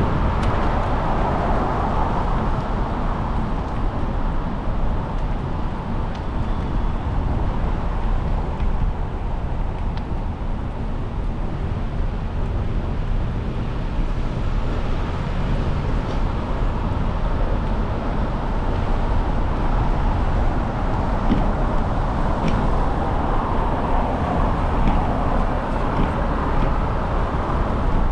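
Riding on a bicycle through traffic: a steady rumble of wind and road noise with tyre hiss on wet pavement and the wash of cars, which swells near the start and again near the end.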